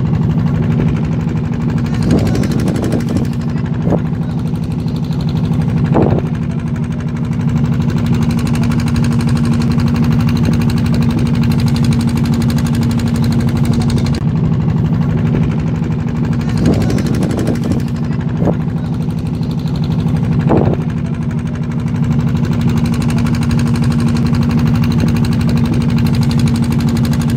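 A river boat's engine running steadily at an unchanging pitch, with a few short knocks now and then.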